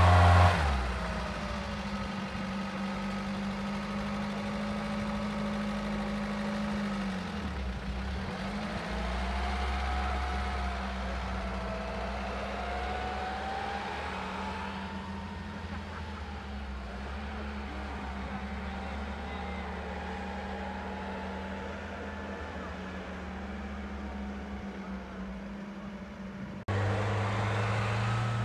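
UAZ-469 off-roader's engine running under load as it crawls through deep snow, its pitch slowly rising and falling. Near the end the sound jumps suddenly louder.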